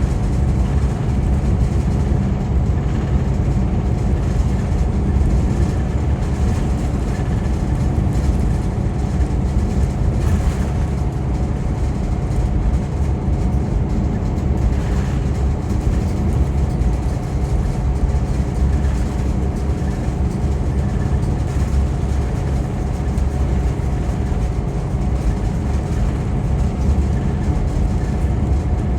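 Scania K410EB6 coach cruising at steady speed, heard from inside the cabin: a constant low engine drone mixed with tyre and road rumble, without gear changes or pauses.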